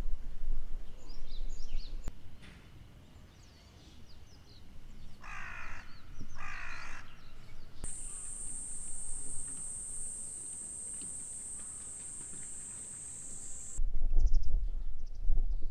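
A crow cawing twice in quick succession, amid small bird chirps, over low wind rumble. A steady high-pitched drone, like an insect, then holds for several seconds and cuts off suddenly.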